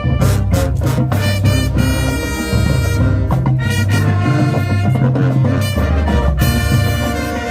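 High school marching band playing loudly: blaring brass over a heavy low-brass bass line, with drum hits throughout.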